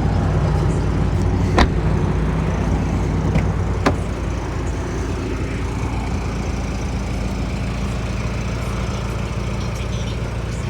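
A car engine idling steadily, with two sharp clicks about one and a half and four seconds in.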